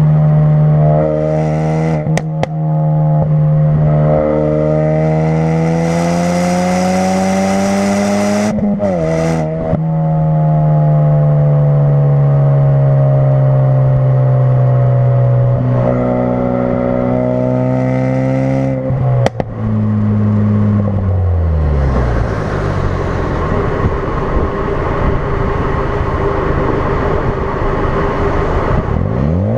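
2016 Ford Focus RS's 2.3-litre turbocharged four-cylinder running through a custom-fabricated exhaust on the road. The engine note climbs, drops at a break about eight to nine seconds in, then drones and slowly falls. After a second break it sinks into a rough, uneven rumble with no clear note, and the revs climb again at the very end.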